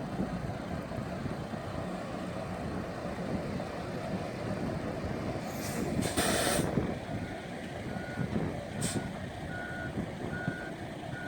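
Diesel engine of a gravel dump truck running, with a loud hiss of air from the air brakes a little past halfway and a shorter hiss soon after. The reversing beeper then starts, sounding a little more than once a second.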